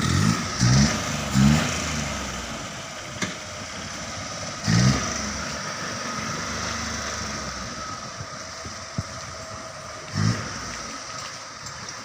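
A modified car's engine revved in short throttle blips, each a quick rise in pitch. There are three in quick succession at the start, then single blips about five and ten seconds in, over a steady background of engine and road noise.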